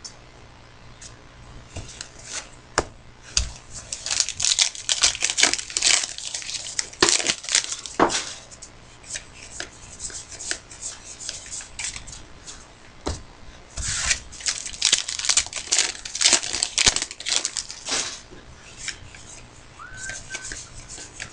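Trading card pack wrappers being torn open and crinkled, with cards handled, in two busy spells of crisp rustling and tearing.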